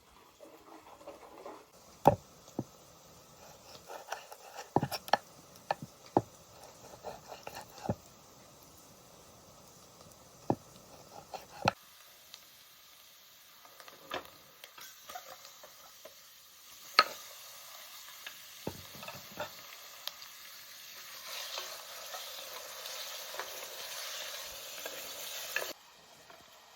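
Food frying in a pan while a utensil stirs and knocks against it, with scattered sharp taps and scrapes. Later a steady sizzle takes over and cuts off suddenly near the end.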